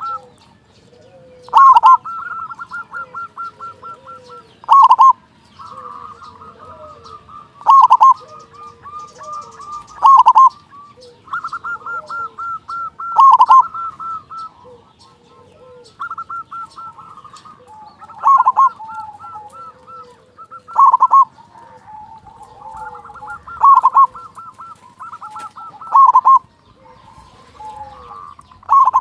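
Zebra dove (perkutut) male singing: a loud cooing phrase repeated about every two and a half to three seconds, linked by fast runs of rapid staccato notes. Softer, lower coos are heard between the phrases.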